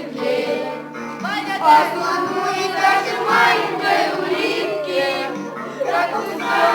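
Children singing a song together in chorus over musical accompaniment.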